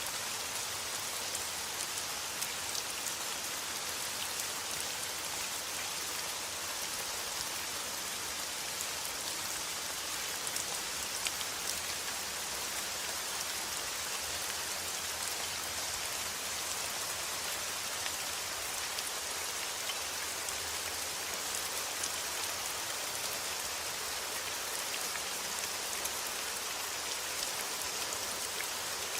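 Steady rain falling: a dense, even hiss of many drops hitting a surface, with fine individual drop ticks through it and no change in strength.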